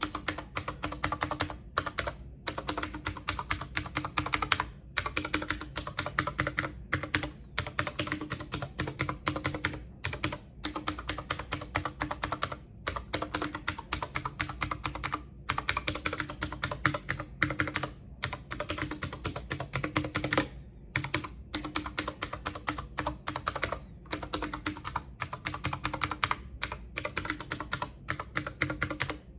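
Rapid typing on a computer keyboard: a dense, continuous clatter of key clicks broken every second or two by brief pauses.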